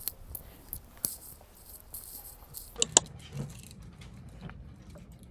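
Small hard objects being handled, rattling and clicking, with two sharp clicks about a second in and near three seconds, then a run of light ticks.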